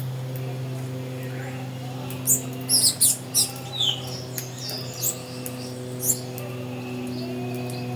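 Songbirds chirping: a quick run of short, high, sweeping notes about two to four seconds in, with a few more scattered after. A steady low hum sounds throughout.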